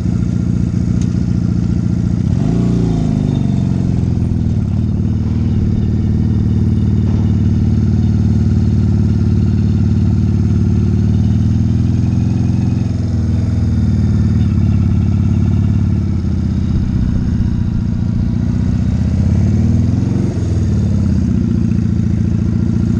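Motorcycle engine idling steadily, with brief throttle blips that lift and drop its pitch about two seconds in, about halfway through and near the end.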